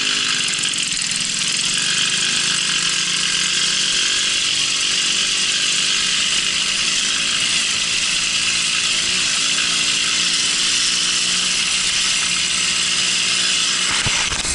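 Small two-stroke Babetta moped engine running steadily under way, with a buzzing, chainsaw-like note. A couple of sharp knocks near the end.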